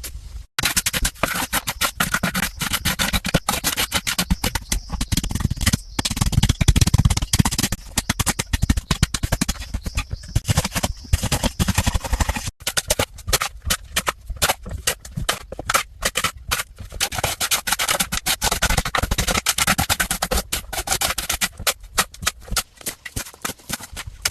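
Sped-up hand-work sounds: dense, rapid scraping and rubbing full of quick knocks, broken by abrupt cuts about half a second in and about halfway through.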